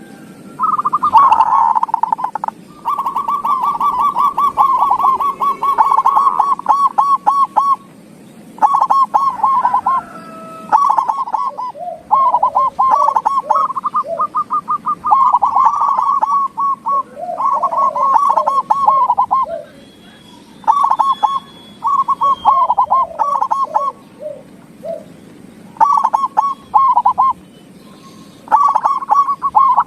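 Zebra doves (perkutut) cooing in runs of rapid, stuttering notes that repeat with short pauses between phrases, with lower gliding notes overlapping at times.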